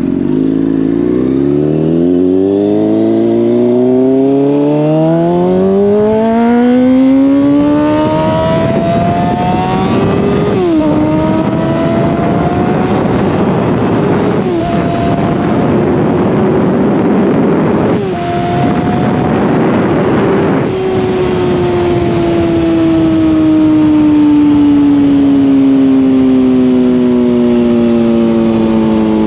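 Honda CBR600RR's inline-four through a slip-on exhaust, pulling hard with its pitch climbing, then clicking through three quick upshifts with a quickshifter, the pitch dropping at each with barely a break in power. After the last one the throttle closes and the revs fall slowly on engine braking, with wind rushing throughout.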